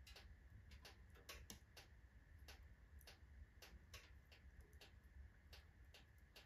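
Alder and oak logs burning in a wood stove, crackling with faint, irregular sharp pops several times a second over a low steady rumble.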